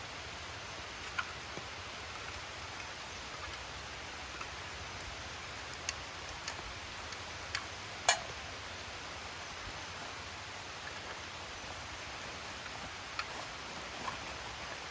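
Steady rain hiss with scattered drops tapping on surfaces; one sharper tap comes about eight seconds in.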